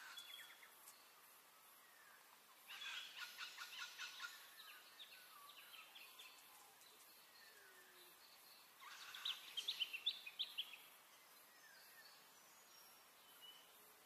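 Bird calling: bursts of rapid clicking, chattering calls, one about three seconds in and a louder one about nine seconds in, over faint background hiss.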